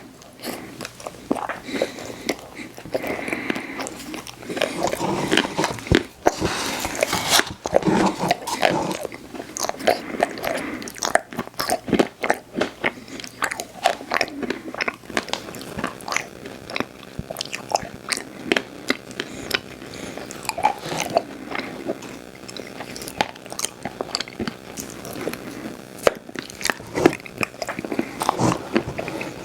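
Close-miked eating of ice cream desserts: a run of biting and chewing, with many small sharp crunches and mouth clicks.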